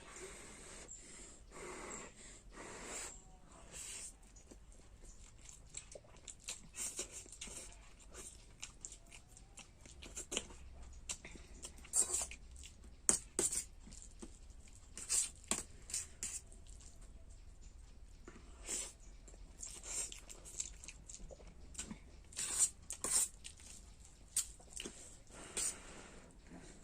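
A person eating masala Maggi instant noodles close to the microphone: irregular short chewing and slurping noises.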